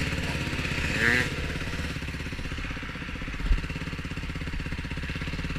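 Yamaha YFZ450R quad's single-cylinder four-stroke engine idling steadily, with an even fast pulse. A single dull low thump about halfway through.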